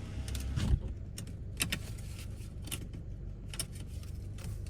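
A car engine running low and steady, heard from inside the cabin, with scattered sharp clicks and rattles.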